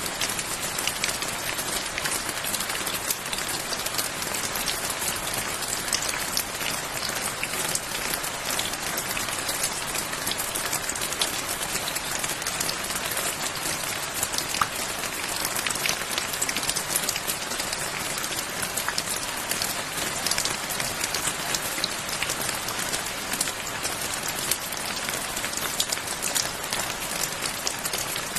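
Steady rain falling on a surface, a continuous hiss dense with small close drop patters.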